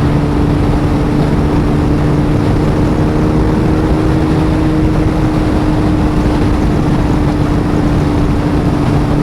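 Honda Valkyrie 1500's flat-six engine running at a steady cruising speed, its note holding one pitch, over a steady rush of wind noise. The engine is freshly rebuilt after hydrolocking.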